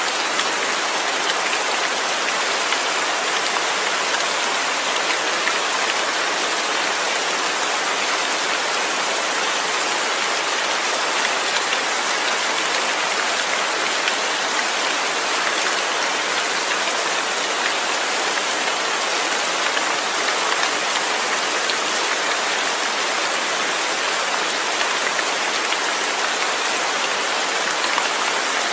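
Steady rain falling, an even hiss with fine drop impacts and no thunder.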